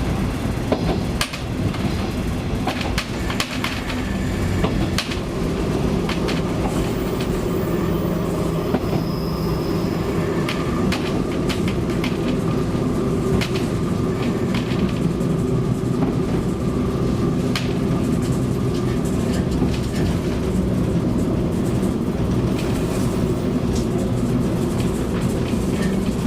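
KiHa 20-series diesel railcar under way, its DMH17 diesel engine droning steadily, with the wheels clicking over rail joints every so often.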